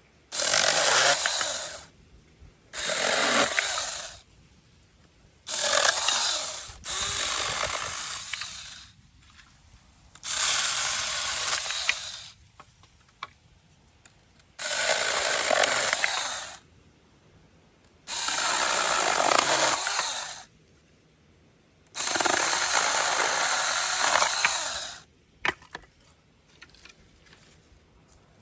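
Cordless handheld mini chainsaw cutting small sticks in about eight short bursts of a second or two each, with quiet pauses between cuts.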